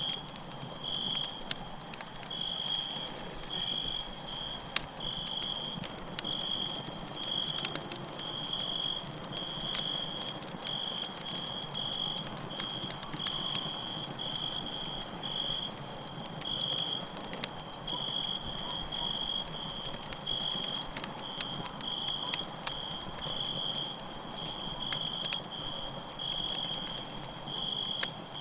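Campfire crackling with scattered sharp pops and snaps, under crickets chirping steadily in short, evenly repeated high-pitched pulses.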